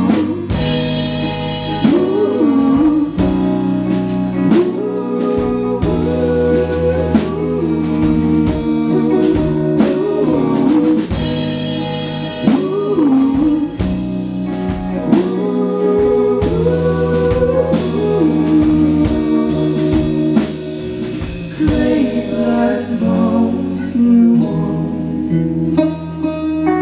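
Live band playing a slow song: guitar and drums under a melody line that slides between notes, with regular drum strikes.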